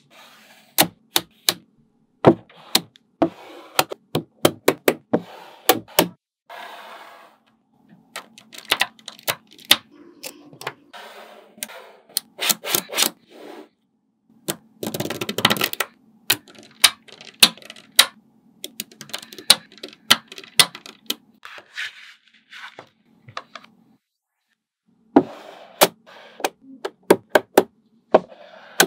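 Small magnetic balls clicking and snapping together as they are set in place, in quick irregular runs of sharp clicks. A denser rattle of many balls comes about halfway through.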